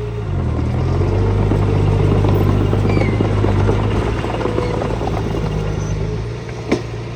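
Diesel engine of heavy earthmoving machinery running under load, with its speed picking up in the first second and then holding steady, with a rattle over it. A single sharp knock near the end.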